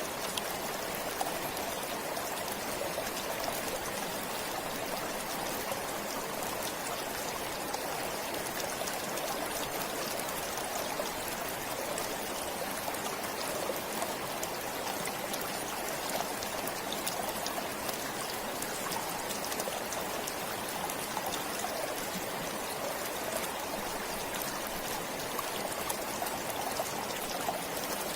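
Stream water flowing steadily: an even, continuous rush with fine trickling and splashing.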